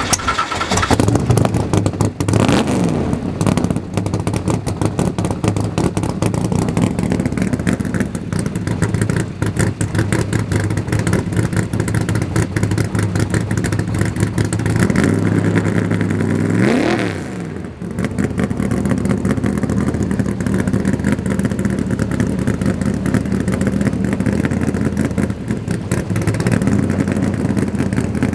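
Chevrolet ZL-1 aluminum-block 427 big-block V8 in a 1969 Corvette, idling just after a cold start. It is blipped briefly about two seconds in, then revved higher about seventeen seconds in before falling back to idle.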